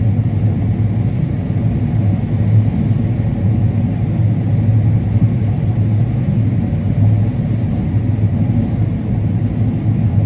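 Combine harvester running steadily while cutting corn: a constant low drone with no change in pitch.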